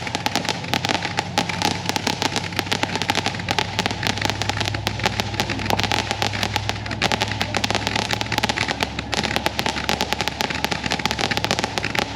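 Consumer fireworks going off in a dense, unbroken stream of rapid cracks and pops.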